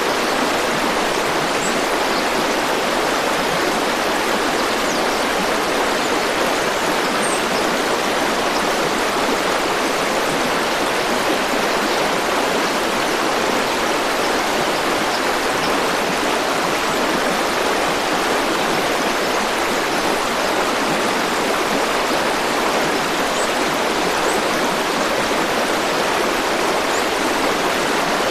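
A river flowing steadily: an even, unbroken rush of water, with a few faint high ticks.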